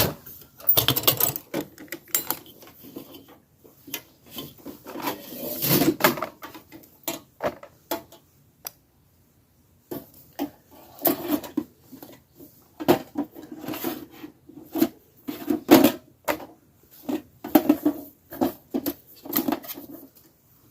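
Objects being handled and set down: an irregular run of knocks, clicks and scrapes, with a short pause partway through.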